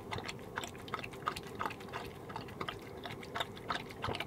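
A dog eating wet stew from a plate: a run of quick, irregular wet smacks and chewing clicks.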